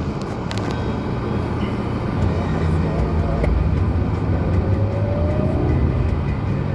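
Lada Granta's four-cylinder petrol engine running under load while driving, a steady low drone that grows louder about two seconds in.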